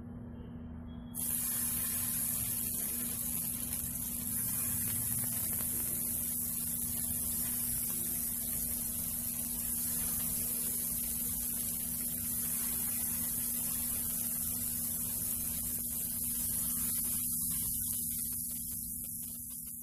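Shami kabab patties sizzling in a little hot oil in a nonstick frying pan as they are laid in one by one for shallow frying; the sizzle starts suddenly about a second in and thins out near the end. A steady low hum runs underneath.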